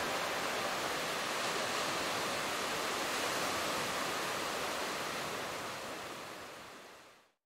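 Ocean surf: a steady rush of breaking waves, fading out near the end.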